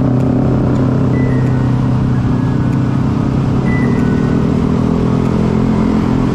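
Motorcycle engine running steadily while riding on a road, heard from the bike itself, under a steady haze of road and traffic noise. The engine note shifts slightly about four seconds in.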